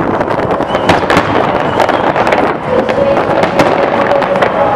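Fireworks display: a dense, unbroken run of bangs and crackling from many aerial shells bursting at once.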